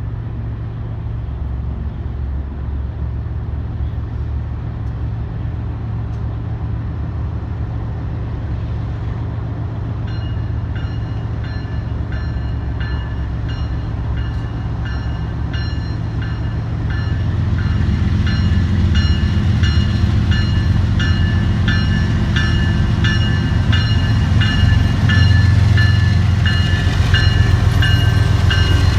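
Diesel passenger train rumbling, growing louder about two-thirds of the way through as it draws closer. A bell starts ringing steadily about a third of the way in, about one or two strokes a second.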